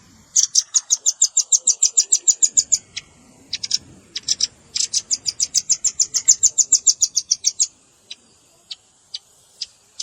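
Velvet-fronted nuthatch calling: two rapid trills of sharp, very high chit notes, about ten a second and each lasting two to three seconds, with scattered single notes between them.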